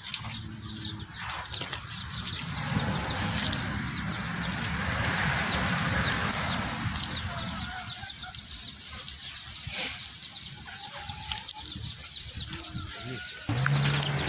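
Birds clucking and chirping over a steady rustling background, with a sharp click about ten seconds in.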